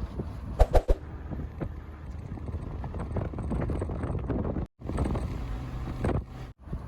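Wind buffeting the microphone, a steady low rumble with a few loud bumps a little under a second in. The sound cuts out twice, briefly, in the second half.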